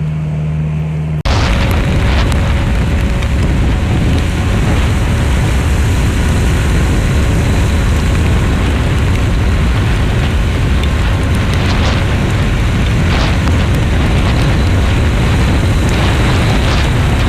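Loud, steady rumbling roar of wind buffeting the microphone, cutting in abruptly about a second in.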